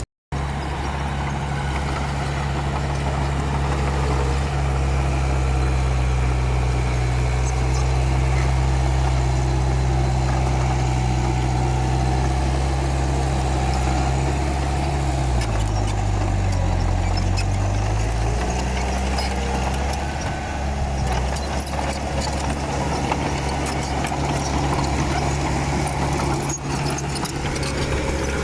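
Komatsu D31P bulldozer's diesel engine running steadily; a little past the middle its note drops for a couple of seconds, then picks back up.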